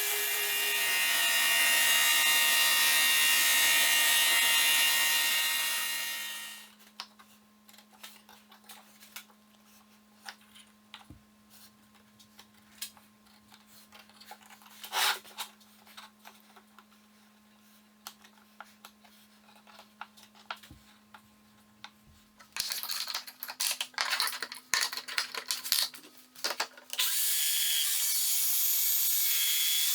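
An electric power tool working wood: it runs steadily for several seconds and stops. A quieter stretch of light clicks and knocks with a low hum follows. Then come a series of short start-stop bursts, and the tool runs steadily again near the end.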